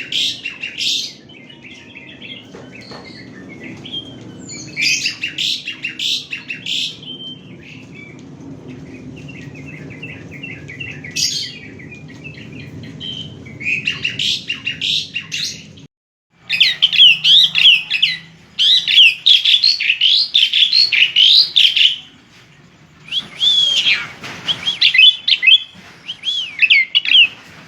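Asian pied starling (jalak suren) singing: bursts of quick chattering, whistled and trilled notes separated by short pauses. The song becomes louder and denser about sixteen seconds in.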